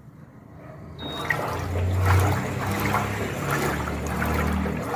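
Electrolux 15 kg washing machine taking in water: the flow starts suddenly about a second in, with a short high tone at the onset and a steady low hum underneath.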